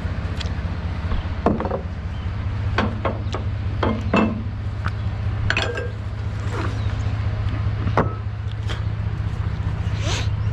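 Vehicle engine running steadily, with scattered short knocks and metallic clinks over it.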